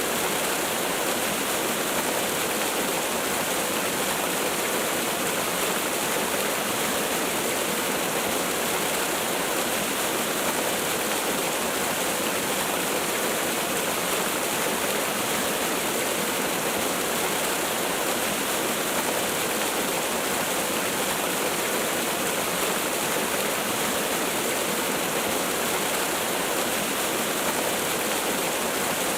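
Waterfall: a steady, unbroken rush of falling water, with little deep rumble.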